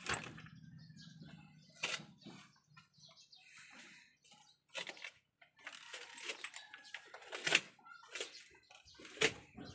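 Quiet background with birds calling in short, scattered sounds.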